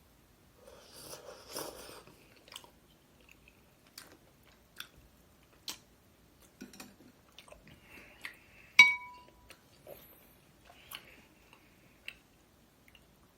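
Close-miked eating sounds: chewing with scattered crunches and small mouth clicks. About nine seconds in, a single sharp clink of a utensil against a dish rings briefly and is the loudest sound.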